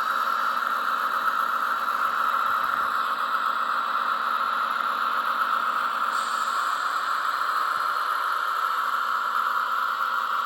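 Zimo sound decoder in a Roco model of an ÖBB 2067 diesel shunter, playing its diesel engine running steadily through the model's small loudspeaker, thin and without bass. A faint hiss joins about six seconds in.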